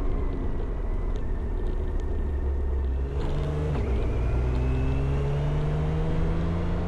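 Motorcycle engine running while riding. About four seconds in the pitch briefly drops, as at a gear change, then climbs steadily as the bike pulls.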